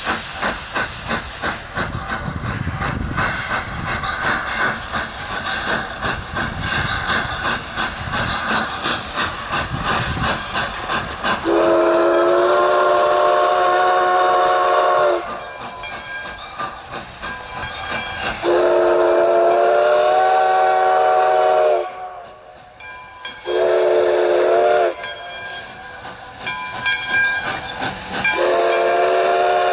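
Nevada Northern No. 93, a 2-8-0 steam locomotive, hissing steam with a fast, even pulsing. About twelve seconds in its chime whistle starts sounding in several tones at once: two long blasts, a short one and another long one. This is the long-long-short-long pattern of a grade-crossing signal.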